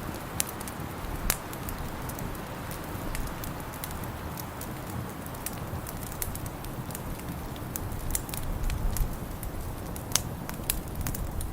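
Wood fire in a fireplace crackling, with scattered sharp pops, a few of them loud, over a steady low rumble.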